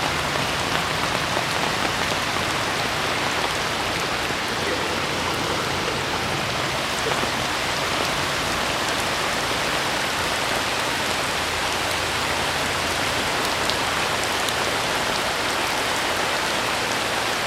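Steady heavy rain falling during a hurricane, an even hiss of rain with faint scattered drop ticks.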